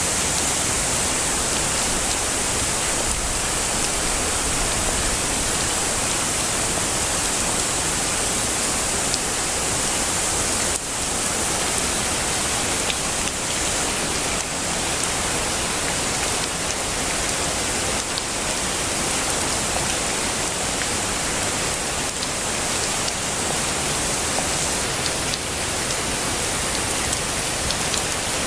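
Heavy rain falling steadily: a dense, even hiss, brightest in the treble, with a few sharper drop strikes here and there.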